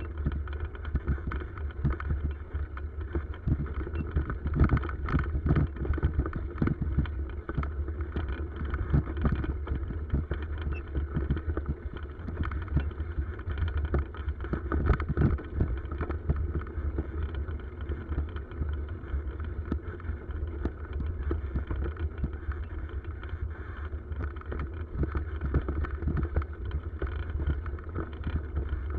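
Riding a bicycle, heard from the bike itself: a steady low rumble with irregular knocks and rattles throughout, heavier around five seconds in and again around fifteen seconds in.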